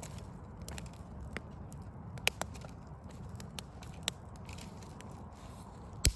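Wood fire crackling, with scattered sharp pops at irregular intervals and the loudest pop near the end, over a low steady background rumble.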